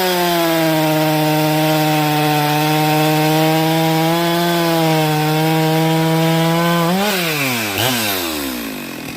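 Two-stroke chainsaw running at high revs while cutting firewood, a steady high engine note; about seven seconds in the throttle is released and the revs fall away.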